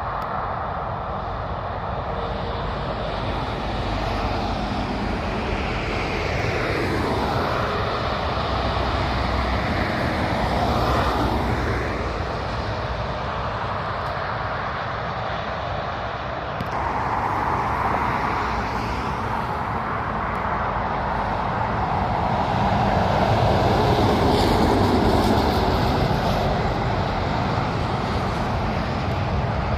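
Road traffic with heavy trucks driving past one after another, the engine and tyre noise swelling as each goes by; the loudest pass comes near the end.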